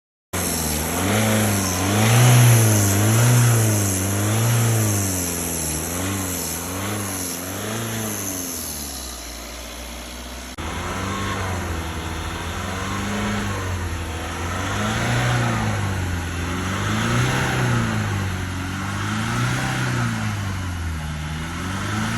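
Diesel car engine revved up and down over and over, its pitch rising and falling about once a second. There is a sudden break about halfway through, after which the cycling continues.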